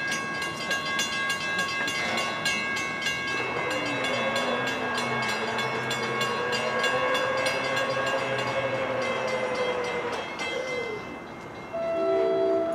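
A rapid, even metallic ringing of about five strikes a second, typical of a grade-crossing bell, stops about ten seconds in, while an approaching NJ Transit train hums low. Near the end the train's horn sounds a steady chord blast.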